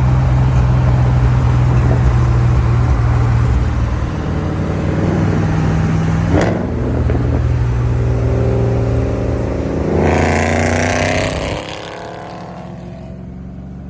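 Car engine running while driving, a steady drone heard from inside the cabin. There is a short sharp noise about six seconds in, and a brief rev rising in pitch near the end before it turns quieter.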